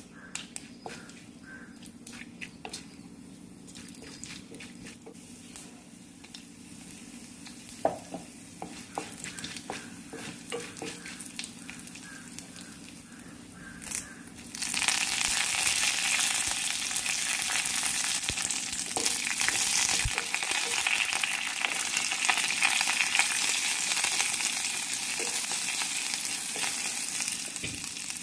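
Tempering frying in hot oil in a clay pot. For the first half, scattered small pops and crackles come from lentils and dried red chillies frying. About halfway, a sudden loud sizzle starts as sliced shallots and curry leaves go into the oil, and it stays steady.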